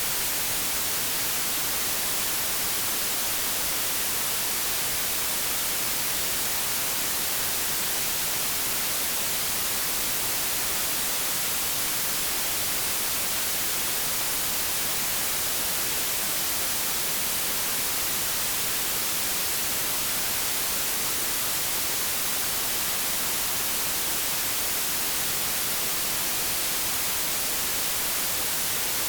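Steady white noise static, like TV or radio static between stations, an even hiss strongest in the high end with no change.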